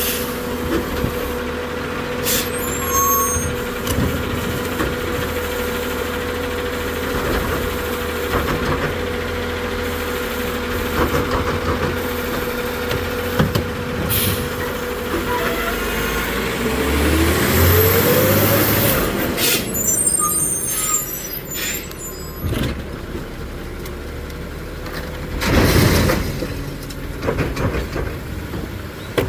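CCC New Way Sidewinder side-loading garbage truck working: its engine runs with a steady whine, then revs up with a rising pitch a little past halfway. Hisses of air and a run of clanks and bangs follow, with a loud hiss near the end.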